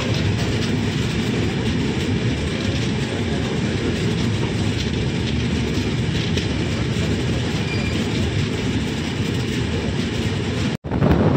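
Passenger train coaches running past on the adjacent track at close range, heard from an open coach door: a steady rumble of steel wheels on rail. The sound cuts out for an instant near the end and comes back louder.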